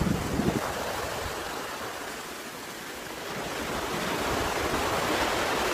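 Ocean surf washing onto a beach, easing off a little and then building again toward the end.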